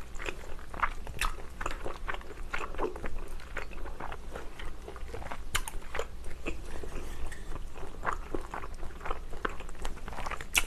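Close-miked eating of stir-fried glass noodles with bean sprouts: wet chewing and biting with many short, irregular clicks and some crunches.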